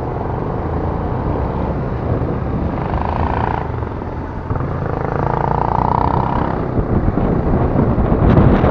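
A 125 cc scooter engine running steadily under way, with road and wind noise over the microphone; it grows louder and rougher near the end.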